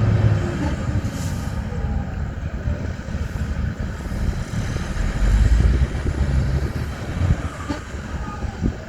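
Heavy diesel earthmoving machinery running under load, with a deep engine rumble that swells about five seconds in. A few short knocks come near the end.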